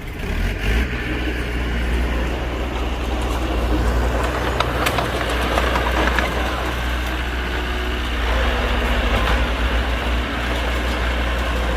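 Heavy diesel engine of earthmoving machinery running steadily, with a few sharp metallic knocks about halfway through.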